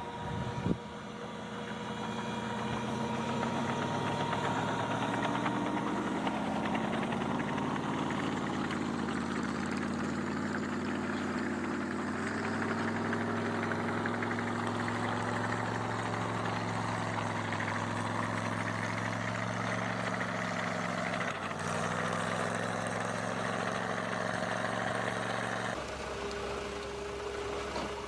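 An engine speeding up over the first few seconds, then running steadily at a higher pitch under load. Near the end it gives way to a quieter steady engine hum.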